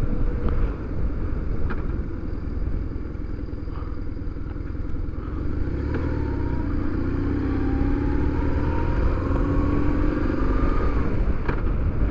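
Motorcycle engine running under way, with road and wind noise; its note climbs steadily through the second half as the bike speeds up, then drops briefly near the end.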